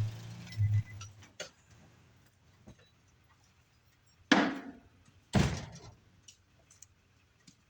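Two heavy thuds about a second apart, each ringing off briefly, after a low hum that dies away in the first second.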